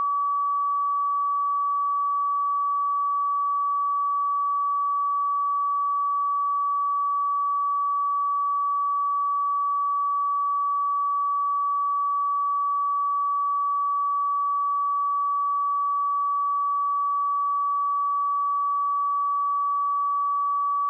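A pure 1143 Hz sine-wave test tone, held steady at one pitch and one level, for checking speakers or headphones.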